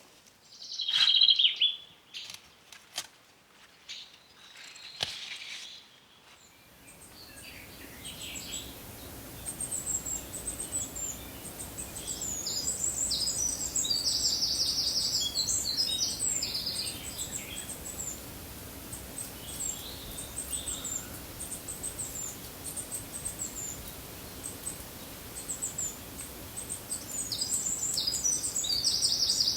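A few sharp clicks and knocks with one loud high call in the first seconds, then birds chirping over a steady background noise.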